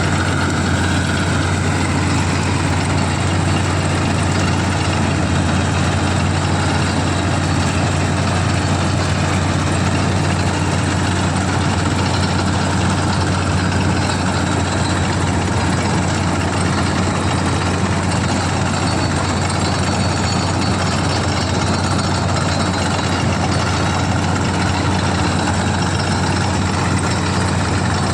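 CLAAS combine harvester running steadily: a constant low engine hum under a wide mechanical rush, holding the same speed throughout.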